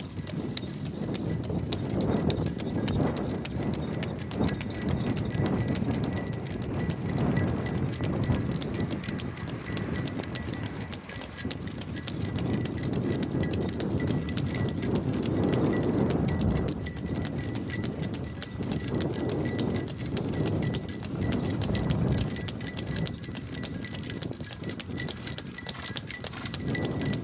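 A runner's footsteps striking the ground in a steady rhythm, over a steady high-pitched whine.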